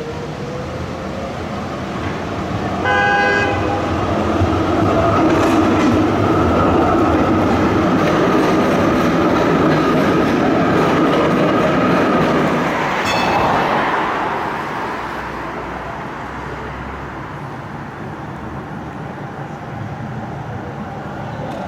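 A city tram passing close by, its running noise swelling and then fading away. It sounds a short horn-like warning signal about three seconds in, and there is a brief high-pitched squeal or ring about two-thirds of the way through.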